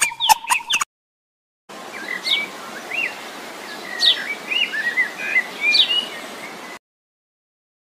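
Asian fairy-bluebird calling over a light hiss. Three sharp whistled notes slide steeply down, with short chirpy notes between them. A few brief chirps and clicks come right at the start.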